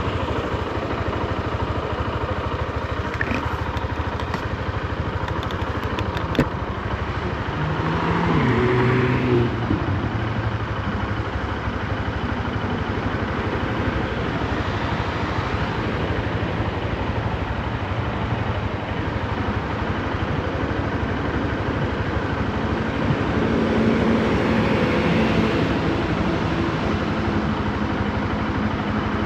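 Honda CB125F's small single-cylinder four-stroke engine running on the move with wind and road noise, kept at low revs while the new engine is broken in. Its pitch climbs under acceleration about eight seconds in, and it pulls again a little past twenty seconds.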